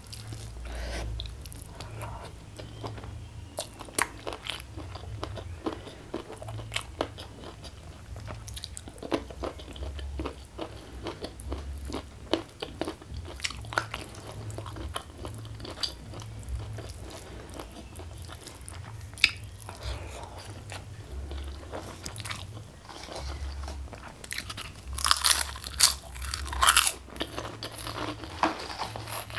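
Close-miked chewing of a mouthful of rice and chicken: wet chewing with many small sharp crunches and mouth clicks, and a run of louder crunches near the end.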